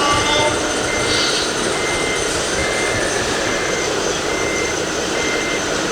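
Reversing alarm of an RC model truck beeping steadily, about seven single high beeps a little under a second apart, over a constant background din.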